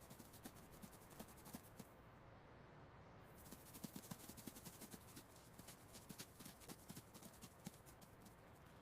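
Faint, quick irregular tapping and scratching of a mouse's small feet and claws scurrying.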